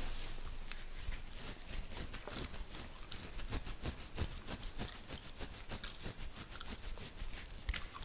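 Fingernails scratching through a beard in rapid, crisp strokes, several a second.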